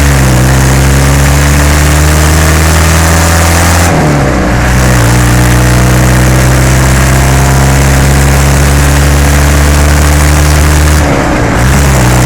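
Isuzu 4BE1 3.6-litre four-cylinder diesel engine pulling a series Land Rover up through the gears. The revs climb steadily, then drop back sharply at a change about four seconds in and again near the end. The exhaust is made louder by a hole in it.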